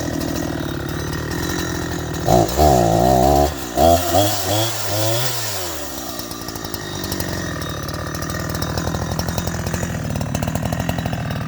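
Chainsaw running at a steady idle, revved up loudly a few times a couple of seconds in, then its pitch falls back down and it settles to idle again.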